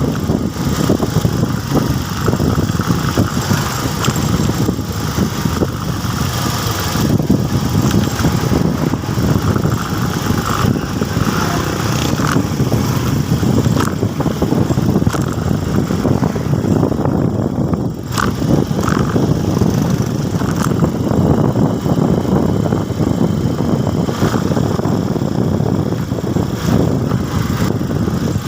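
Motorcycle engine running steadily on the move, mixed with a dense rushing noise, with a brief dip about two thirds of the way through.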